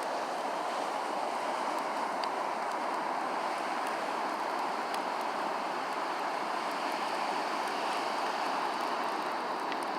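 Bonfire burning: a steady rushing hiss with a few faint scattered crackles.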